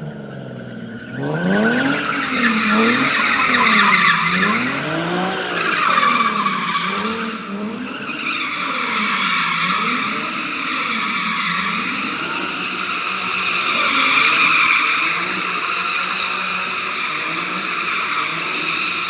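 A car spinning its tyres in a burnout pit: the engine revs up and down again and again, and the tyres squeal throughout. It starts about a second in.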